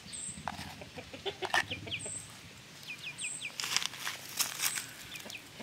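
Bird-like chirping: short, quickly falling chirps in quick runs of three to five, with scattered clicks and knocks.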